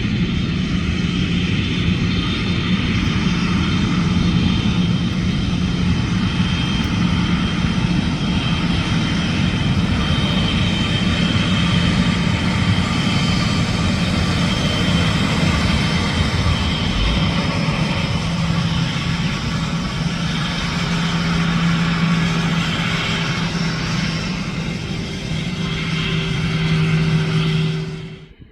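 Jet airliner's engines running loud and steady, a dense rush with a held whine, then cutting off abruptly near the end.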